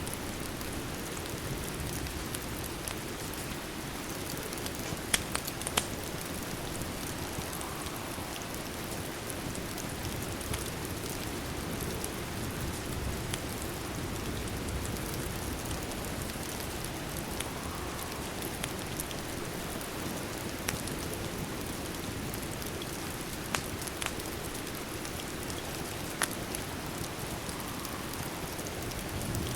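Steady rain ambience with a wood fire crackling now and then, a few sharp pops standing out, the loudest about five seconds in.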